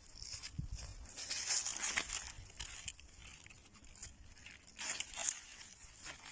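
Rustling and crackling with scattered sharp clicks and snaps, swelling about two seconds in and again near the end.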